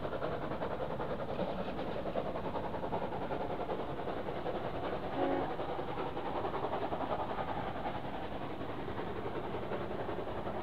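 Two trains, each headed by a steam locomotive with a diesel locomotive attached, running side by side under power: a steady mix of locomotive and wheel-on-rail noise. About five seconds in, one of the locomotives gives a brief toot.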